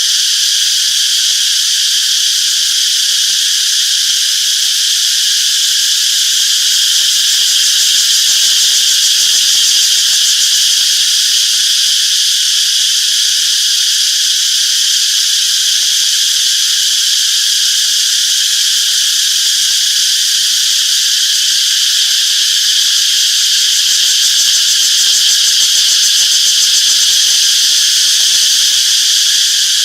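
A chorus of cicadas making a steady, high-pitched buzzing drone, unbroken and even in loudness.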